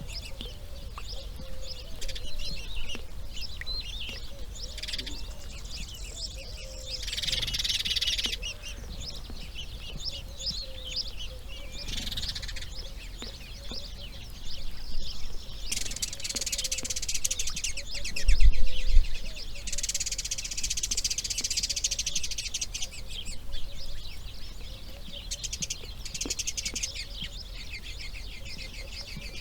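Birds chirping and calling, with several long trains of rapid, dry ticking chatter, over a low steady rumble; a brief low thump about eighteen seconds in.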